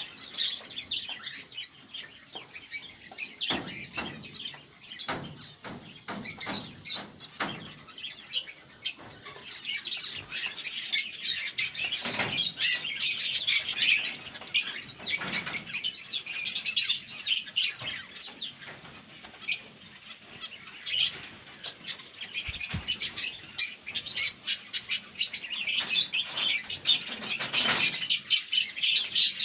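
Caged birds chirping and twittering: many short high calls in quick succession, busiest from about ten seconds in, with a few knocks near the start.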